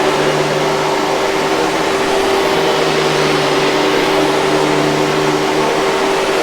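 Hoover 5000 Series canister vacuum running steadily: a constant motor hum over a wide rush of air, with no change in pitch or level.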